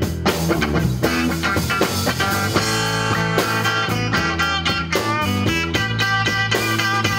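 Rock band playing: electric guitar lines over bass and drums.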